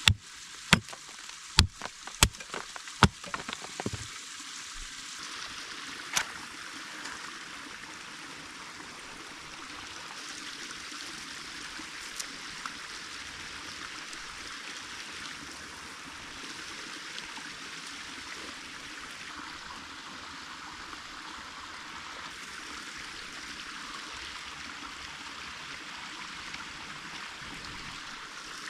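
Creek water running steadily. In the first four seconds about eight sharp knocks or cracks sound over it.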